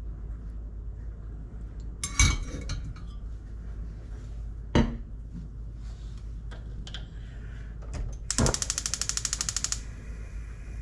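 Kitchen handling sounds: three sharp knocks of dishes or utensils a couple of seconds apart, then a rapid even clicking for about a second and a half.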